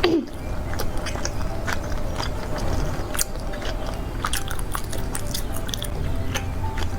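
Close-miked biting and chewing of a grilled rice cake skewer, with scattered wet clicks and smacks over a steady low hum.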